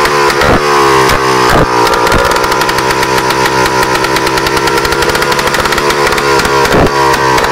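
Izh Planeta 4 motorcycle's single-cylinder two-stroke engine running with no exhaust system fitted, loud and raw. The revs rise and fall a few times in the first two seconds and once near the end, running steadily in between.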